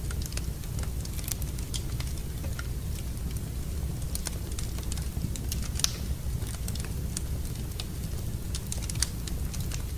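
Wood fire burning in a fireplace, crackling and popping with irregular sharp snaps over a steady low rumble.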